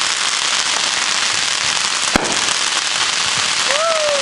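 Dense, continuous crackle of many firecrackers and fireworks going off around the neighbourhood, with one sharp bang about two seconds in.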